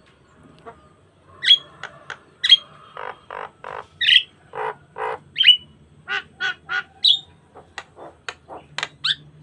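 Javan myna (jalak kebo) singing a busy, varied song. Loud, sharp squawking notes come roughly once a second, with runs of short, harsh chattering notes between them.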